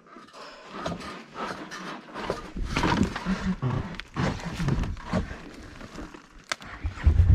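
Irregular knocks, scrapes and rustling of people handling an overturned ATV on a slope. Just before the end, an engine starts running steadily.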